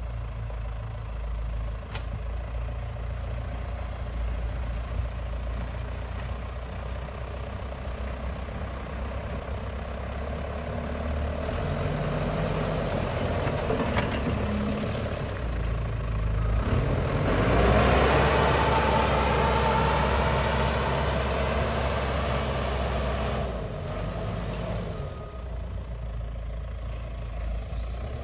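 Heavy diesel engine of a construction machine, a backhoe loader or dumper, running steadily. It revs up under load around the middle, with its pitch rising, then drops back toward idle near the end.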